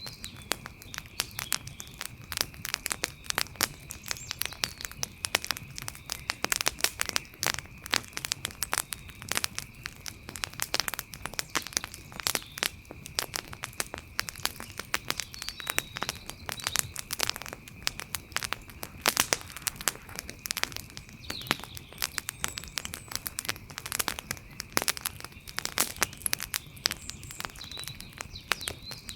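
Wood fire crackling, with a dense, irregular run of sharp pops and snaps over a low hiss. A steady high thin tone sits faintly behind it throughout.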